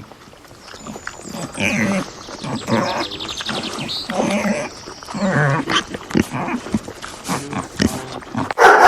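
A string of short animal calls, one after another, with a much louder call starting just before the end.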